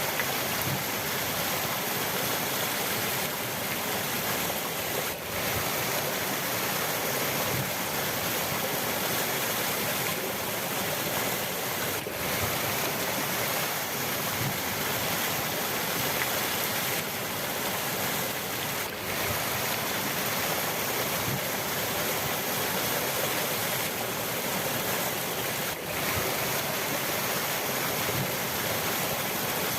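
River water rushing steadily over rocks, an even, continuous sound.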